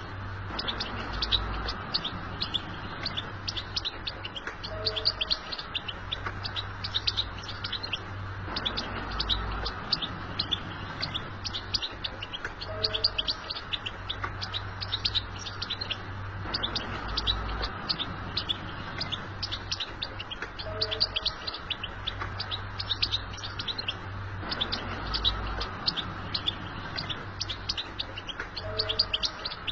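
European goldfinch singing a fast, unbroken twittering song of rapid high chirps, the kind of recording played to set caged goldfinches singing. A steady low hum runs underneath.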